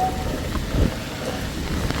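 Heavy rain and passing road traffic on a wet road: a steady hiss with a low rumble a little under a second in. A steady high tone cuts off just after the start.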